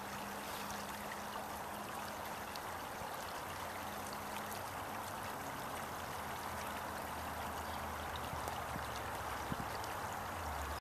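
Stream water flowing over an embankment's rocks, a steady rushing with small splashes.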